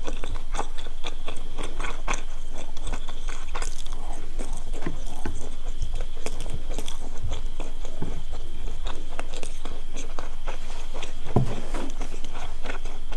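Close-miked chewing of a mouthful of fried food, a bitten deep-fried ball: a dense run of small wet mouth clicks and soft crunches, with one heavier low knock near the end.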